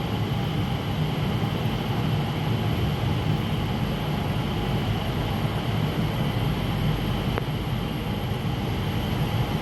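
Steady rushing of falling water from the Rain Vortex, a 40-metre indoor waterfall.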